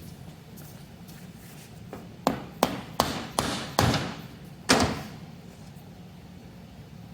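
Six sharp hammer taps on the Monarch 10EE lathe's compound slide, a quick run of strikes with a short ring after some. They are knocking out the gib to take the compound apart.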